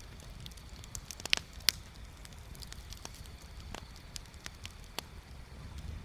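Wood bonfire crackling, with irregular small pops and two loud snaps about a second and a half in, over a low steady rumble.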